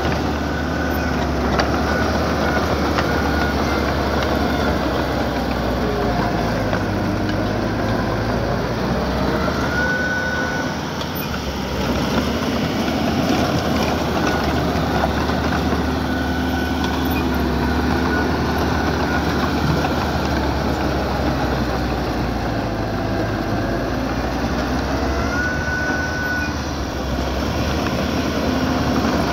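Diesel engine of small earthmoving equipment running steadily under work, with a few short high squeaks now and then.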